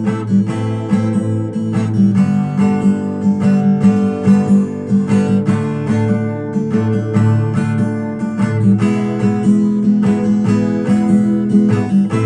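Acoustic guitar strummed in a steady rhythm, a chord progression played without singing.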